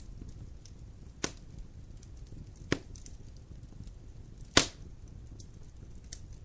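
Wood fire crackling in a fireplace: a low steady rumble with faint ticks, and three sharp pops, the loudest about four and a half seconds in.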